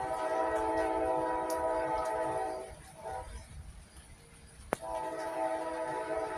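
Distant train horn sounding two long, steady blasts, each about two and a half seconds, with a brief sharp click in the gap between them.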